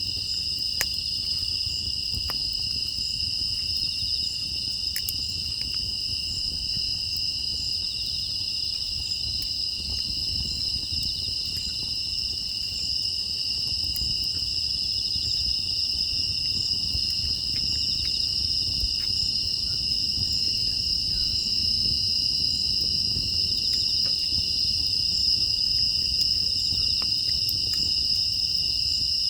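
A steady chorus of grass insects, crickets chirring in an unbroken high trill, over a low even rumble, with a few faint sharp clicks scattered through.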